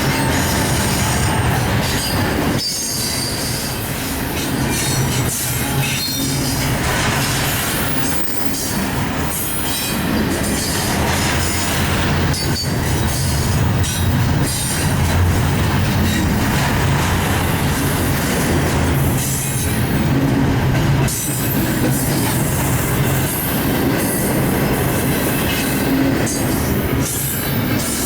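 Union Pacific train rolling past, a steady loud rumble of wheels on rails with irregular clanks.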